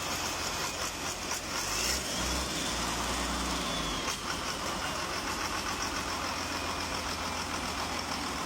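Engine idling steadily with an even firing rhythm, its low rumble heavier for a couple of seconds about two seconds in.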